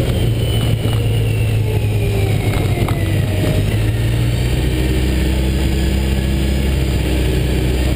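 A car's engine running as it drives along a rough dirt track, heard close from a camera on the hood, its pitch easing down over the first few seconds.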